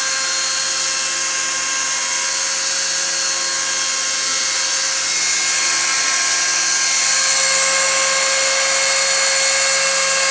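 Spindle of a homemade CNC router running at speed and cutting a pattern into a plastic sheet: a steady high whine over a dense hiss, growing a little louder about halfway through.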